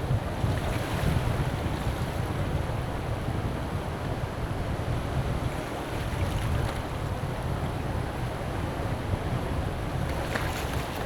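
Strong wind buffeting the microphone with a steady low rumble, over the wash of sea waves on the shore; a slightly brighter surge near the end.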